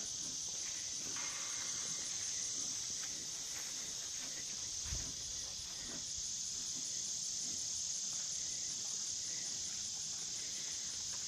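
Steady high-pitched chorus of insects, a continuous drone with no break. A brief low thump sounds about five seconds in.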